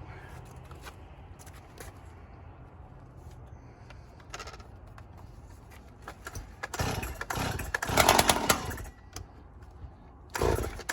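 Motorcycle engine with a CPI racing exhaust pipe, giving a few short irregular bursts about seven seconds in, then starting up loudly just before the end. Before that there are only a low hum and faint clicks.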